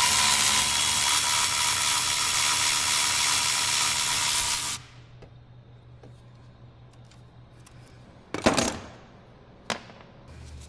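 Handheld power tool running steadily with a constant whine for about five seconds, then stopping, as it undoes 10 mm fasteners. After it, a few light clicks and a brief loud clatter about eight seconds in.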